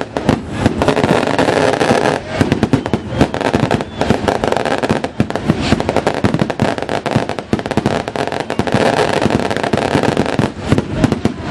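A long string of firecrackers going off, a rapid, continuous crackle of small bangs.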